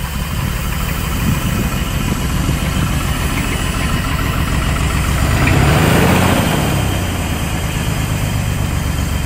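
Chevy S10 pickup's abused engine running rough and shaking at idle just after a restart, revved up once about six seconds in and settling back to idle.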